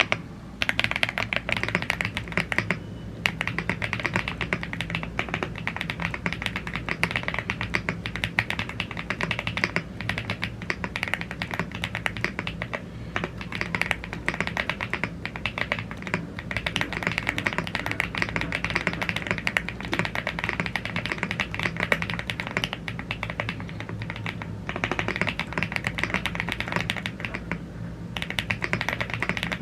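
Fast, continuous typing on a YUNZII AL75 gasket-mounted CNC aluminum mechanical keyboard with Blue Grey tactile switches and double-shot PBT Cherry-profile keycaps: a rapid stream of key clacks with a few short pauses.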